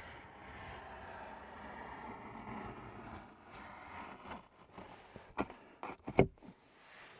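Styrofoam board being cut, a steady scratchy rasp for about four seconds, then a few sharp knocks and taps as the board is handled, the loudest about six seconds in.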